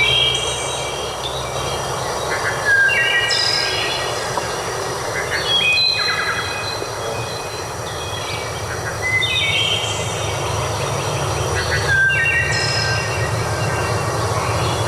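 Birds singing in short phrases of clear, stepped notes, repeating every few seconds, over a steady low rumble and a thin, steady high tone.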